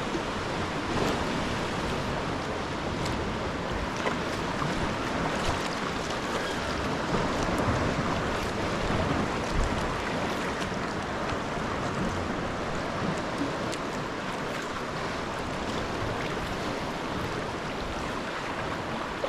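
Sea water lapping and splashing around a sea kayak under way: a steady rushing noise with a few small clicks.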